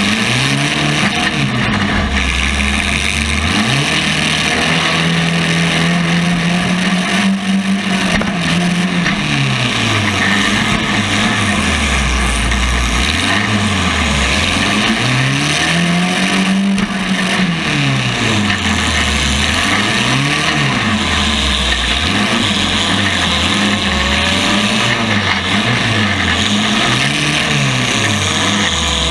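Compact race car engine accelerating and backing off again and again while lapping, its pitch climbing and dropping, held high for a few seconds early on, then rising and falling about every two seconds later, under a steady rush of noise.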